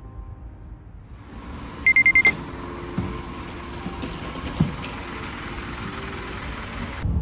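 A quick run of about five loud, high electronic beeps lasting half a second, heard over steady outdoor vehicle and street background with a few soft knocks.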